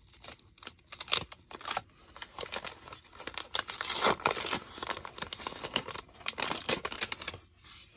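Wax paper wrapper of a 1980-81 Topps basketball pack being torn open and crinkled by hand: an irregular run of crackles and rips, busiest around the middle.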